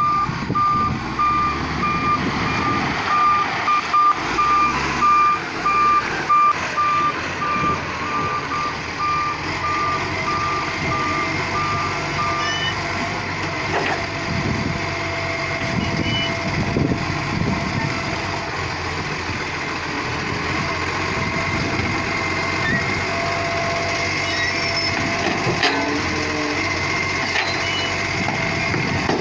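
Garbage truck's reversing alarm beeping in a steady repeating pattern for about the first twelve seconds, then stopping, over the truck's engine running throughout.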